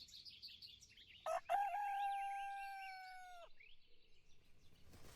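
A rooster crowing once, about a second in: a long held call that drops off at the end. Small birds chirp at the start.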